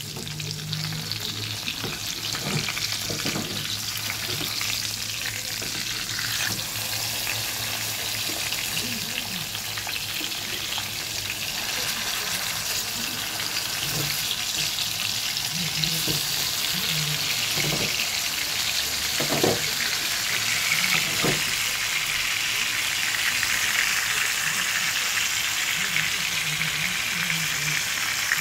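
Tuna steaks frying in oil in a pan: a steady sizzle that grows louder about halfway through, as the steaks are turned over onto their raw side. A few brief knocks come near the middle.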